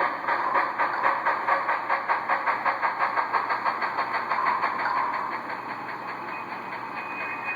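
Athearn Genesis Challenger model steam locomotive's Tsunami sound decoder playing exhaust chuffs through its small onboard speaker, quickening to about five or six a second. About four seconds in, the beats blur into a quieter, steadier steam sound.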